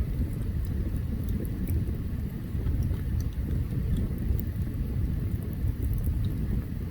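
Open campfire burning with a steady low rumble and scattered faint crackles and pops from the wood.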